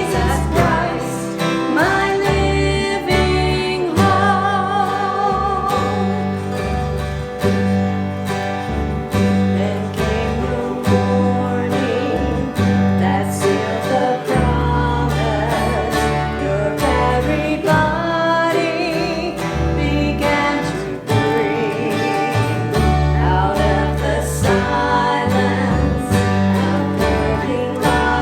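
A vocalist singing a gospel song with vibrato, over acoustic guitar and a bass accompaniment in a country style.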